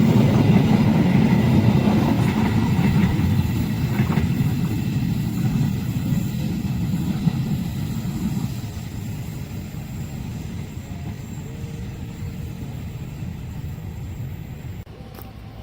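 A train rolling past, its low rumble fading steadily as it moves away, with a few wheel clicks early on. The sound drops off suddenly near the end.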